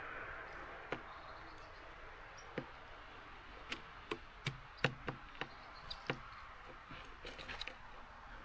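Small birds tapping and knocking at a seed feeder, a dozen or so sharp, irregular taps that come thickest and loudest about halfway through, over a soft hiss of rain.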